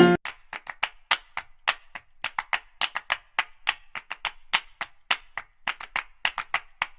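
A rapid, irregular series of short, sharp clicks or taps, about four to six a second.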